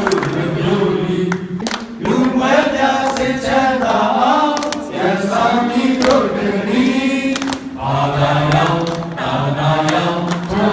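Several voices singing or chanting together in held, gliding phrases, with a few faint sharp clicks among them.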